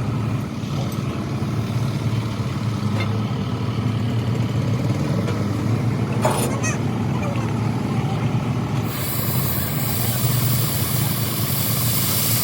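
A running machine's steady low hum, with a few light clicks about six seconds in and a loud hiss starting about nine seconds in.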